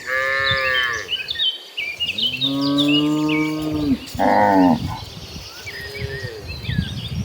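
Cattle mooing: four moos of differing pitch, the longest and lowest starting about two seconds in, with small birds chirping behind them.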